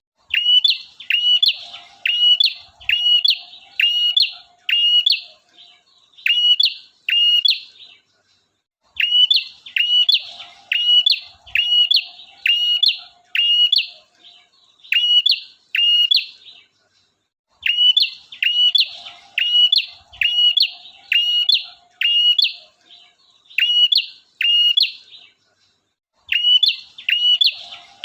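Male prenjak (prinia) singing continuously: quick runs of sharp, repeated notes in bouts of about eight seconds, each broken off by a pause of about a second, played as a lure call for small birds.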